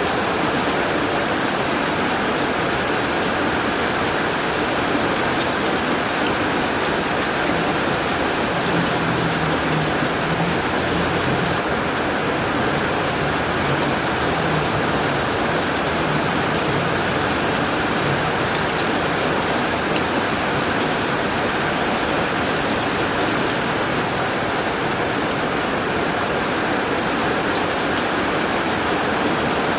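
Steady heavy rain drumming on a tin roof, with scattered sharp drop ticks. A low thunder rumble comes in about a third of the way through and fades out past the middle.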